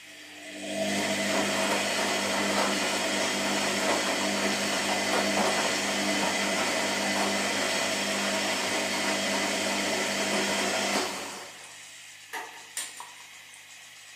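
Washing machine running: a loud motor-driven whir with a steady hum starts about a second in, runs for about ten seconds and winds down, followed by two sharp clicks near the end.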